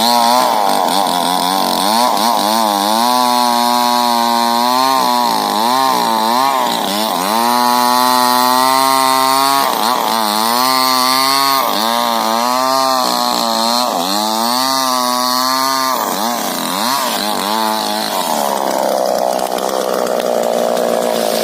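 Two-stroke chainsaw cutting into a rubber tree, its engine pitch repeatedly dropping under load and picking back up as the cut goes on. About 18 seconds in the tone changes to a smoother, less even sound.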